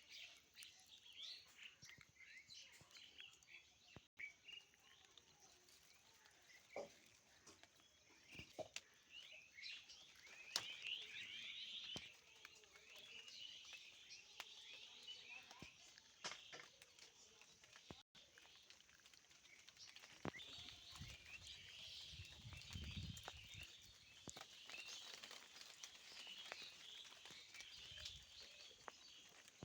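Faint birds chirping: many short, high calls overlapping throughout, with a brief low rumble about two-thirds of the way through.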